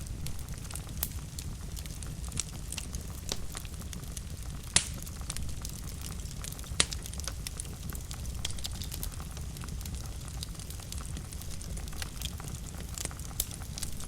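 Fire burning in a fireplace: a steady low rumble of flame with irregular sharp crackles and pops, two of them louder, about five and seven seconds in.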